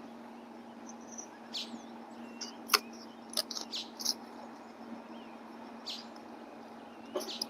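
Birds chirping in short scattered calls over a faint steady outdoor background, with one sharp click a little under three seconds in.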